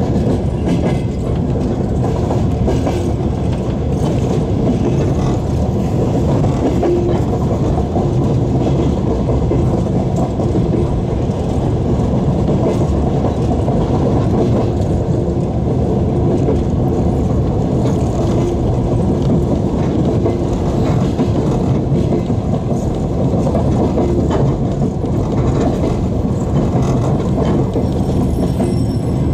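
Steady low rumble of a passenger train carriage rolling along the track, heard from inside the carriage.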